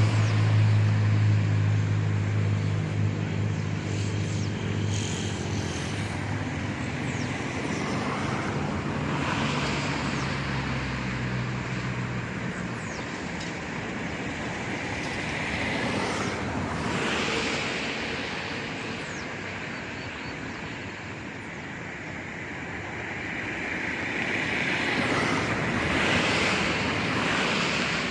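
Outdoor traffic: vehicles passing, their noise swelling and fading three times, over a low engine drone that fades out about halfway through.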